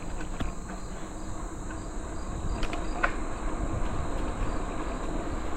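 Steady chorus of insects, a high continuous buzz with an even pulsing trill, over a low rumble of moving air and tyre noise. Two faint clicks come about two and a half and three seconds in.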